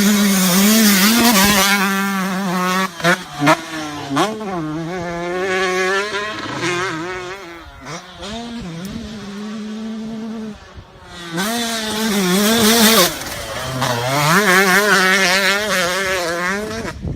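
125cc two-stroke motocross bike engines revving hard, the pitch rising and falling as the throttle is worked. The sound fades and swells again partway through.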